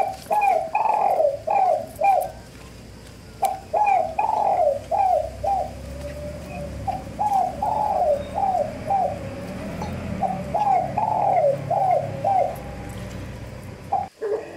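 A bird singing: a phrase of six or seven quick rising-and-falling notes, repeated four times with short pauses between.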